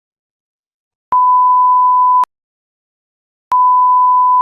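Electronic beep tone: two long, steady single-pitch beeps, each a little over a second long, starting about a second in and again about halfway through. Each switches on and off abruptly with a click, with silence in between.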